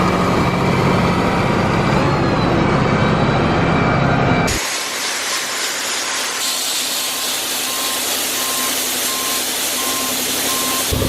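Heavy diesel engine running steadily. After a sudden cut about four and a half seconds in, a steady rushing machinery noise takes over, with a reversing alarm beeping at an even pace from about six seconds on.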